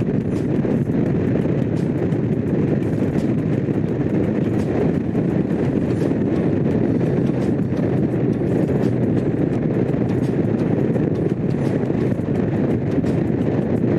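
Honda CX500's V-twin engine running steadily while the motorcycle is ridden.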